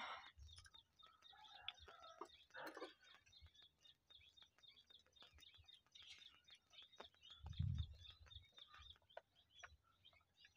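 Near silence with faint bird chirps scattered through, and one soft low thump about three-quarters of the way in.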